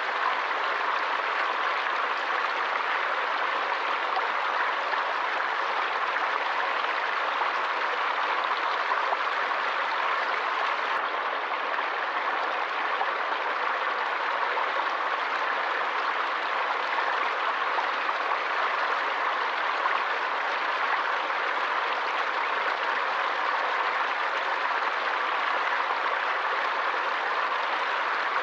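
Running water of a forest stream, a steady even rush.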